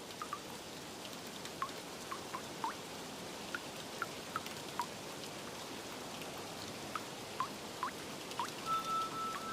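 Steady rain with scattered water drops plinking one by one. A held, bell-like music note comes in near the end.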